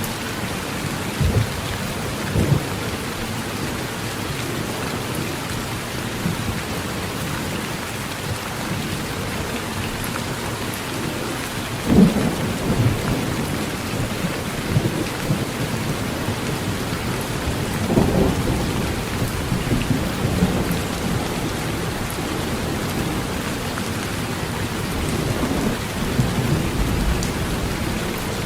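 Heavy rain falling steadily on a tin roof, with thunder rumbling: short rumbles near the start, the loudest about twelve seconds in, and another long roll about eighteen seconds in.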